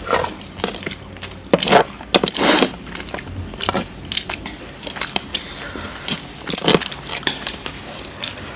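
Close-up eating sounds: irregular crunching and chewing clicks, loudest about two seconds in and again near seven seconds.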